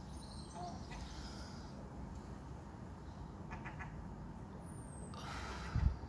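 Outdoor ambience with a low rumble and a short run of three or four quick bird calls about halfway through. Near the end comes a brief burst of rustling noise ending in a thump, the loudest sound.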